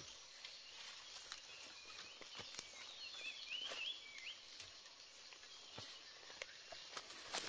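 Faint outdoor rustling and scattered light taps, with a brief high, wavering bird chirp about three seconds in.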